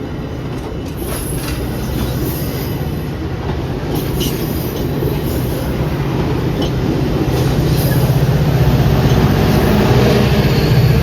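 A diesel train on the BNSF line rolling through, its rumble growing steadily louder toward the end. Brief high-pitched wheel squeals come from the rails in the first few seconds.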